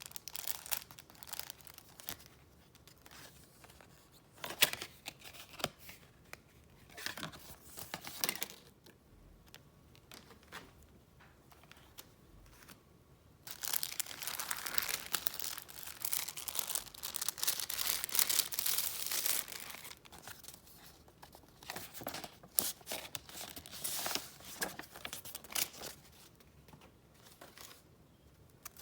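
Paper and gift wrapping handled close up: scattered rustles and crinkles, then a longer stretch of continuous crinkling and tearing about halfway through as a wrapped present is opened, and more light rustling toward the end.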